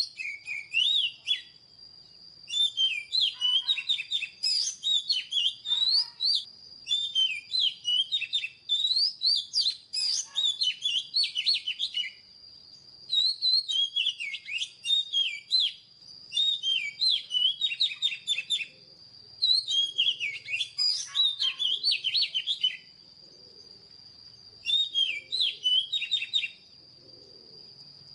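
Oriental magpie-robin singing: rapid, varied whistled and warbled phrases in bursts of a few seconds each, separated by short pauses.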